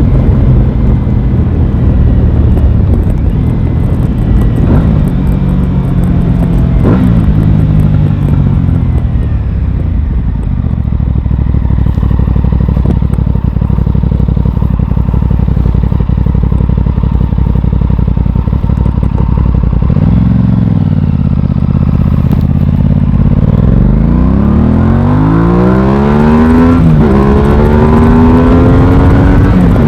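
Aprilia Tuono 660's parallel-twin engine under way: the revs fall as it slows, it runs low and steady for a while, then after a quick rise and fall in pitch it pulls hard with rising revs and a gear change near the end.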